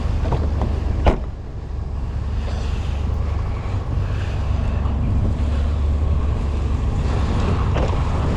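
The 2005 Toyota Highlander's 3.3 L V6 idling as it warms up in the cold, a steady low rumble. There is a single sharp thump about a second in.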